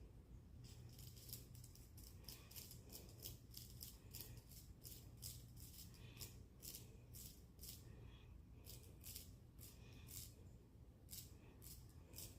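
A cicada caught by a cat buzzing in short, faint, dry rattling bursts, about two or three a second.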